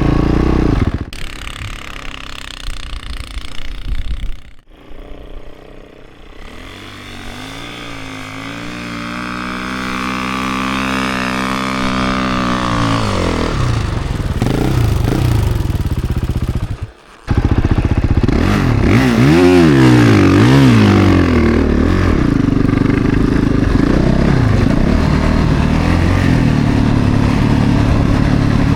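Snowbike's single-cylinder four-stroke 450 engine running under load, its pitch climbing steadily for several seconds and then dropping. Near the middle the sound cuts out briefly and returns louder, with a few quick revs up and down before settling to a steady run.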